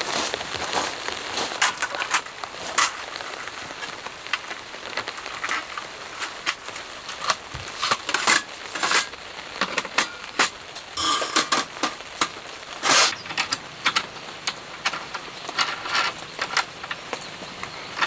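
Raindrops hitting a tent, heard as an irregular patter of sharp ticks and taps over a steady hiss, with the taps coming thicker in the second half.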